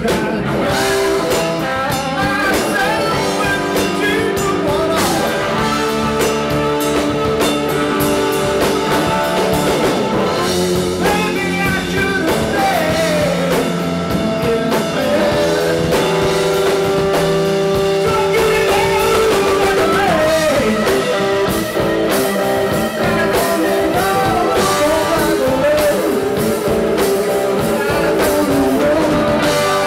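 Electric blues-rock band playing live: electric guitar over bass and drum kit, with a sustained lead line that bends up and down in pitch.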